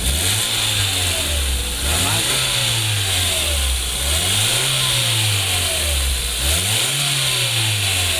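Hyundai Grand Avega's engine revved repeatedly, about every two seconds, its exhaust pitch rising and falling, heard from under the car at the exhaust. A new braided flexible pipe has just been welded in to cure an exhaust leak.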